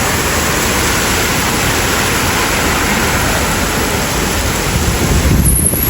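Heavy rainstorm: a steady, loud hiss of pouring rain, with a low rumble building near the end.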